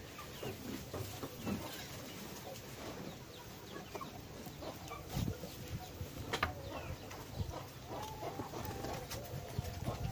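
Birds calling in short repeated notes, clearest near the end, over rustling and soft knocks close to the microphone.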